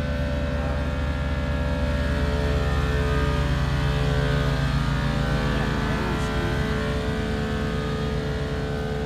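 A car engine idling: a deep, rapidly pulsing rumble with a steady hum over it, swelling slightly a few seconds in.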